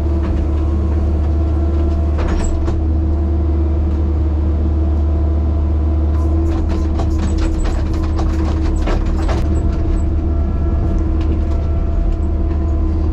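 A large engine running steadily with a deep drone, with a run of clanks and knocks about halfway through.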